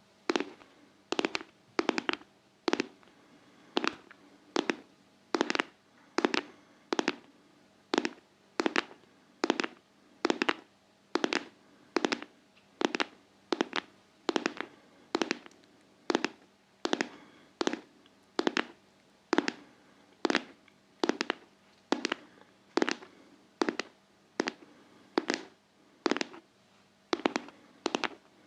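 ASMR tapping in a steady, even rhythm: short clusters of sharp taps a little more than once a second.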